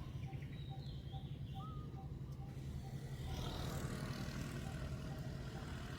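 Outdoor ambience: a steady low engine-like drone, swelling a little about halfway through, with a faint short note repeating about twice a second and a couple of brief bird chirps.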